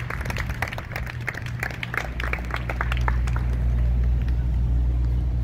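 Audience applause thinning out and dying away over the first three seconds, with a steady low rumble growing louder beneath it from about two seconds in.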